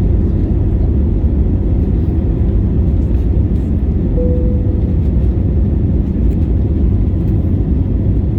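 Airliner's engines at takeoff power: a loud, steady, low rumble, with a brief faint tone about four seconds in.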